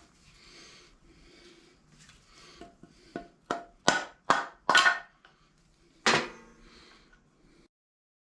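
A series of hammer blows, about seven, coming quicker and louder, then one last heavy blow with a short metallic ring: striking to drive a seized piston out of a Briggs & Stratton lawn mower engine's cylinder.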